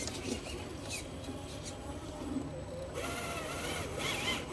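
Traxxas TRX-4 RC crawler's electric motor and geared drivetrain whining, the pitch wavering as the throttle is worked. It grows louder about three seconds in.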